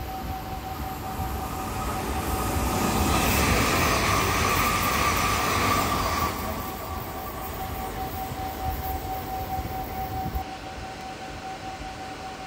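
Sm5 (Stadler FLIRT) electric commuter train coming up to and running along the station platform: its running noise and a whine swell over a few seconds, peak as it goes by, then drop off sharply about six seconds in.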